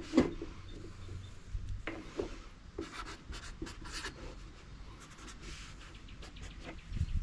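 Soft scratching and rubbing with scattered light clicks and taps: small things being handled up close, around a small weighing scale.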